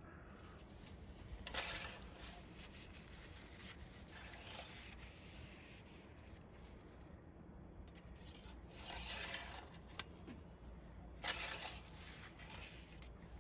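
Four short scraping sounds, each under a second, over a faint low hum.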